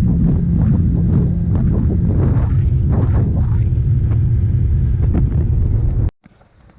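Heavy wind buffeting the microphone over the steady hum of a motorboat running across open water. The sound cuts off suddenly about six seconds in.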